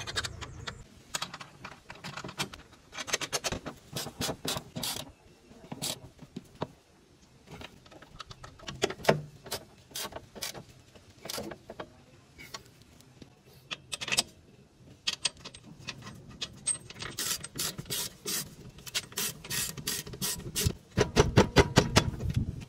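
Ratchet wrench clicking in quick runs as nuts on a rear shock absorber are tightened, with a louder, denser run of clicks near the end.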